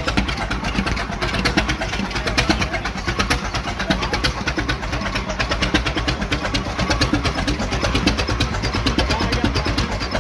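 Big old Holt engine running steadily, with a rapid, even beat of exhaust pulses.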